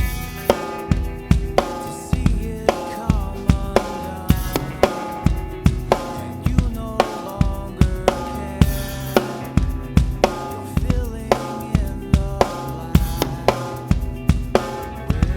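Drum kit played along to a recorded rock song: a steady beat of kick drum and snare strikes with cymbals, over the song's guitars and other pitched parts.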